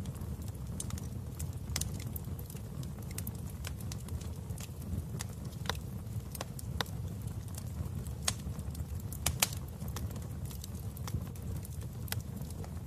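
Wood fire in a fireplace crackling: a steady low rumble of the flames with irregular sharp pops and snaps, a couple of them louder a little past the middle.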